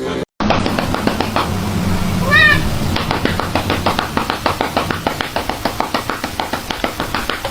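A domestic cat gives one short meow, rising then falling, about two and a half seconds in, over rapid, fairly regular clicking or tapping.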